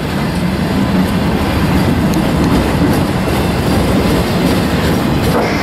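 Freight train of enclosed autorack cars rolling past close by: a loud, steady rumble of steel wheels on the rails.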